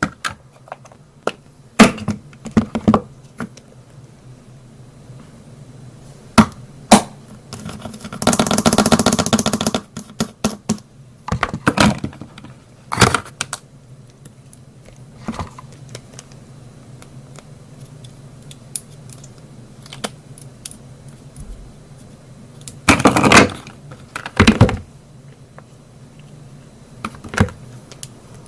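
Makeup containers being handled: scattered clicks and taps of cases and lids, with a dense rattling run of clicks about eight seconds in and another loud cluster of knocks a little over twenty seconds in.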